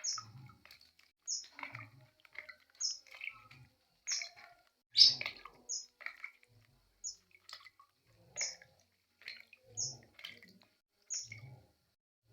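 A small songbird chirping repeatedly: short high chirps about every second and a half, mixed with lower call notes, and soft low thumps in between.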